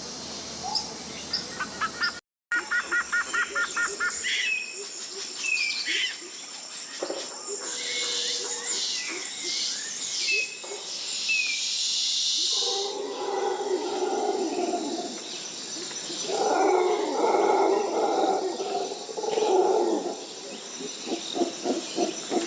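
Tropical rainforest ambience: assorted birds chirping and whistling over a steady high insect drone, with a brief drop to silence about two seconds in where one recording gives way to another. From the middle on, bouts of lower-pitched animal calls come in, ending in a quick pulsing series.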